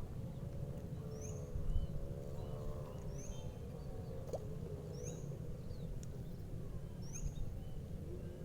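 A bird calling over and over, a short high rising chirp about once a second, over a steady low rumble of outdoor background noise.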